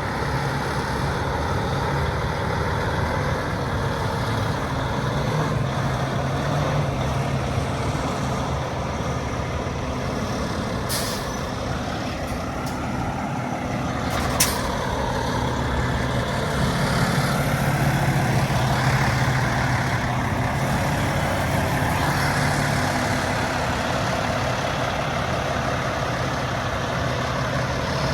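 Freightliner Coronado SD122 dump truck's diesel engine running steadily, with two short, sharp hisses of air a few seconds apart near the middle. The engine runs a little louder for a few seconds after them.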